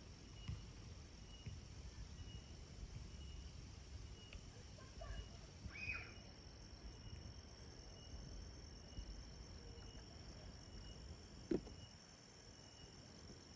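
Faint, steady high-pitched chirring of insects in the background, with a few small rustles and ticks and one short sharp knock about eleven and a half seconds in.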